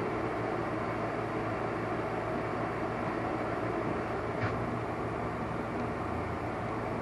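Steady mechanical hum with no change in level, and a single faint click about four and a half seconds in.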